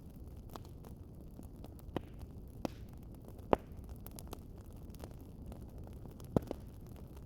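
Wood fire crackling: a steady low rumble of burning with scattered sharp pops, the loudest about three and a half seconds in and two quick ones near the end.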